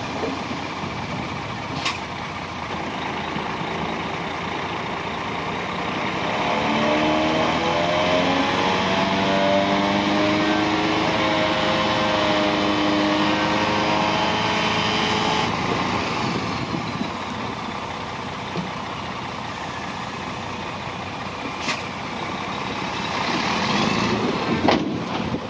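Heavy diesel earthmoving machine's engine running. It labours louder and higher in pitch under load for several seconds in the middle, then eases back. A few sharp clicks or knocks sound near the start and near the end.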